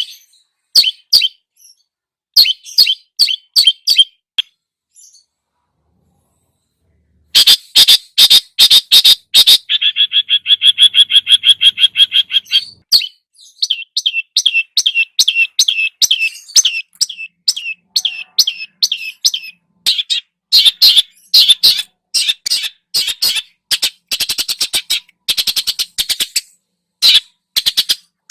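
Masteran song of cucak jenggot (grey-cheeked bulbul) and cendet (long-tailed shrike): loud, rapid series of sharp chirps, broken by a silence of about three seconds a few seconds in, then a fast rattling trill lasting a couple of seconds, followed by dense chattering.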